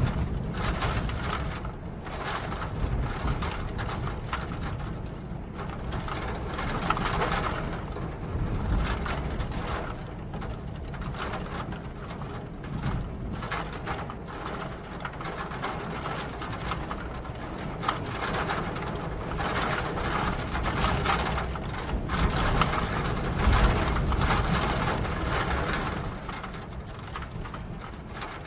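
Steady rain with a dense, irregular tapping of drops over a low rumble, swelling and easing in loudness.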